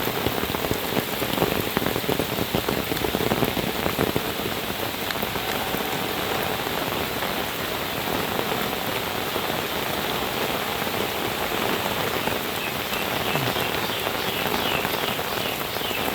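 Heavy rain pouring down steadily, a dense hiss of falling drops.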